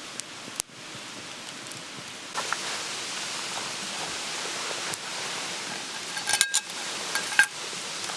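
Steady hissing noise, getting a little louder about two and a half seconds in. There are a few sharp clinks with a brief ring about six seconds in and again near the end.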